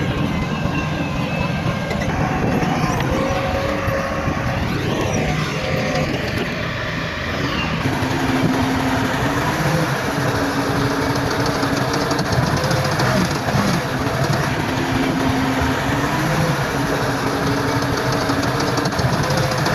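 Heavy diesel earthmoving machines working: engines running loudly, with the engine note shifting up and down in steps and a new, higher note joining about eight seconds in.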